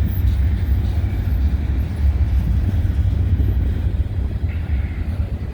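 Diesel freight locomotives working nearby, a deep steady rumble.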